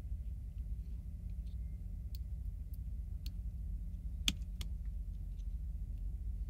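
Small clicks of hard plastic toy parts being handled and fitted together, a few faint ticks and then two sharper clicks close together a little over four seconds in, over a steady low hum.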